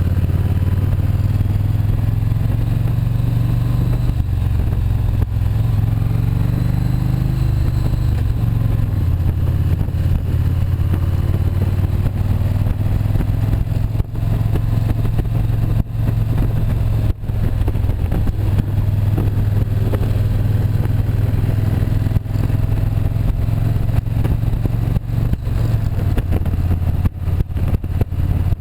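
Motorcycle engine running while riding. Its pitch rises about six seconds in and falls back a couple of seconds later.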